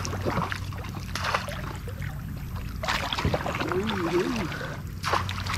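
Water sloshing and splashing around a kayak while a hooked fish is being brought in, with a faint voice calling out briefly a little past the middle.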